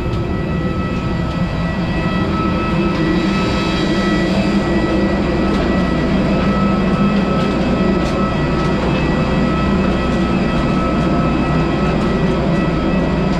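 Airbus A320 cabin noise while taxiing after landing: a steady engine rumble with a thin, steady whine from the engines at idle.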